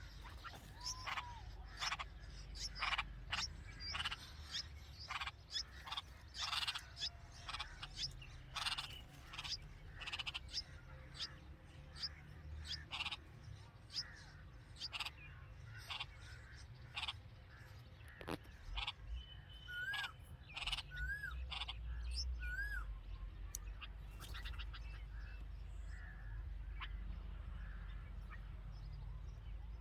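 Red-vented bulbuls chirping at the nest: a quick series of short, sharp chirps, about two a second, that thins out about halfway through. A few short looping whistled notes come in the middle, over a low steady rumble that grows louder near the end.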